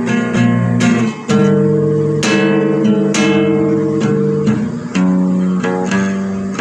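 Acoustic guitar music: chords strummed about once a second, each ringing out and fading before the next.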